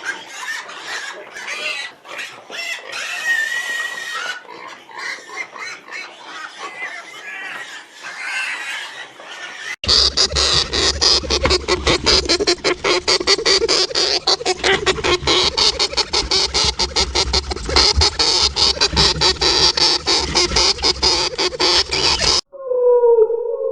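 Pigs grunting and squealing: an irregular stretch at first, then from about ten seconds in a louder, fast run of grunts that stops suddenly near the end.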